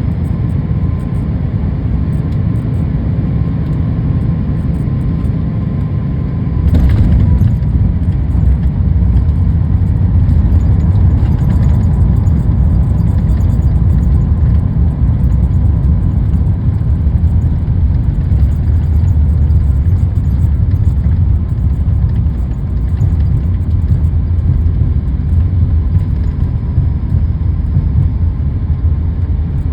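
Jet airliner cabin noise, a steady low rumble. About seven seconds in there is a short thump and the rumble gets louder and stays louder, the sound of the wheels touching down and the plane rolling out on the runway.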